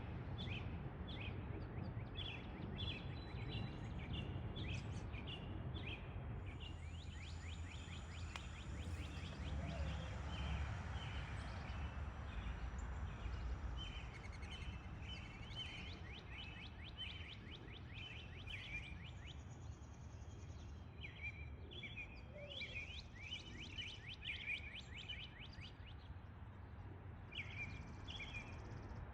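Small birds chirping and singing in quick series of short high notes, over a low steady background rumble.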